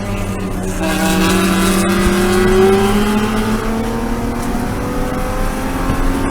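BMW E36 M3 race car's straight-six engine pulling under acceleration, its pitch climbing steadily through a gear.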